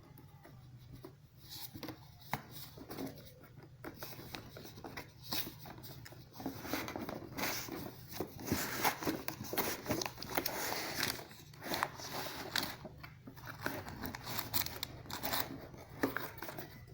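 Packaging being opened and handled by hand: irregular rustling, tearing and crinkling of cardboard and plastic wrap, with scattered clicks and knocks, busiest in the second half.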